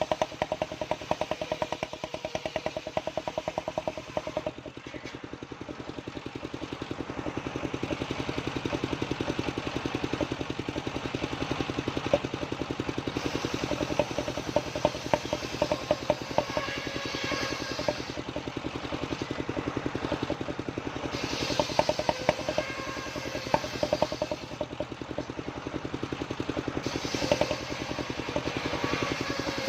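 Small engine of a homemade sawmill running steadily with a rapid pulsing beat while the saw cuts waru wood. The sound dips briefly about four seconds in, and a brighter edge comes and goes over it.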